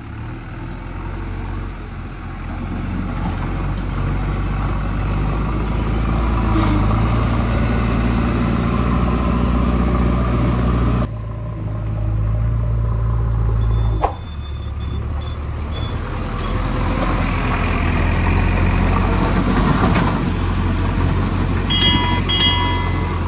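Heavy diesel engine of a JCB backhoe loader running steadily under work, its low hum shifting abruptly twice. Near the end come a few short, high, repeated beeps.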